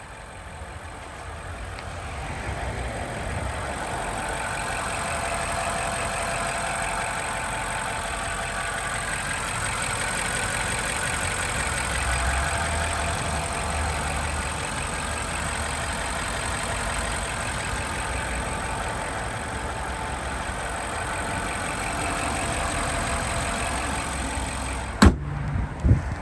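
A car engine running steadily at idle, fading in over the first few seconds. Near the end there is a sharp click, then two short thumps.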